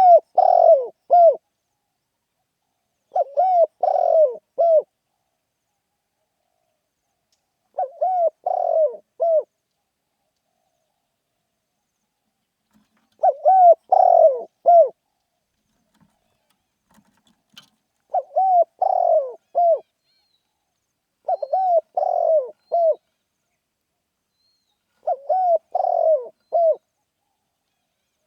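Spotted dove cooing: seven short phrases of several coo notes each, repeated every three to five seconds. These are the rousing 'khan yon' calls that keepers use to lure wild spotted doves.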